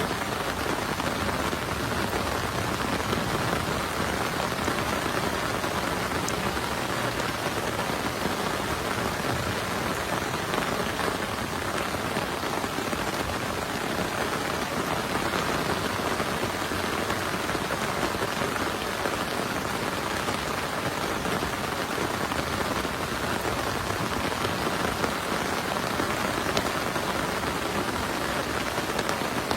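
Heavy rain falling steadily, an even patter and hiss with no thunder.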